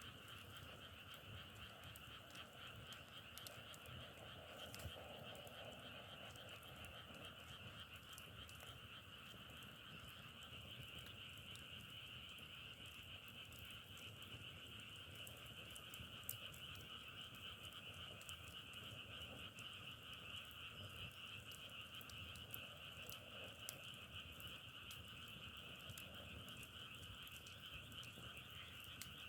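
Faint chorus of many frogs calling steadily and continuously, with scattered sharp crackling pops from burning firewood.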